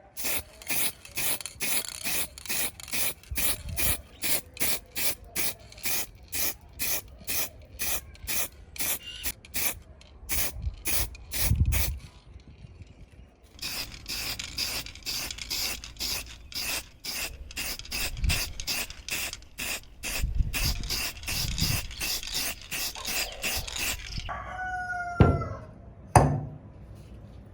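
Rhythmic back-and-forth strokes of hand abrasive work such as filing or sanding, about two to three a second, in two long runs with a short pause about halfway. A rooster crows near the end.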